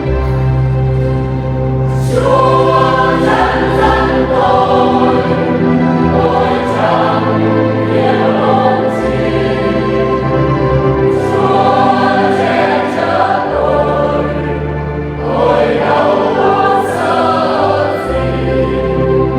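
Church choir singing a communion hymn over sustained low instrumental accompaniment. The voices come in about two seconds in, after a short accompaniment-only stretch.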